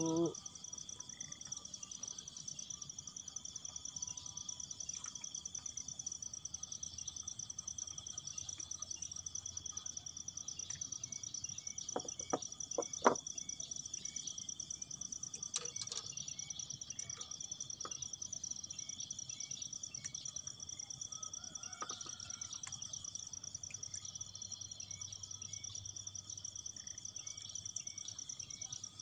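Insects chirping in a steady, high-pitched chorus of several overlapping trills, with a few sharp clicks about halfway through.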